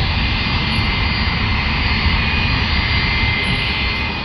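Military aircraft engines running steadily: a loud, even rumble with a faint steady high whine over it.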